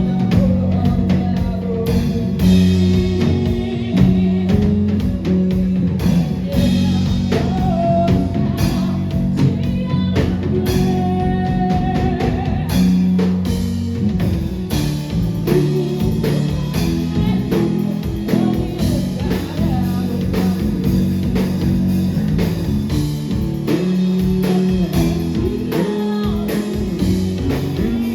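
Live rock band playing a song: guitar and bass over a drum kit, with singing.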